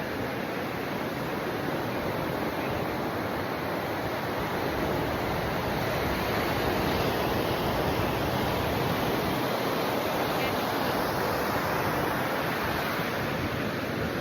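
Ocean surf washing onto the beach: a steady rushing wash that swells a little midway.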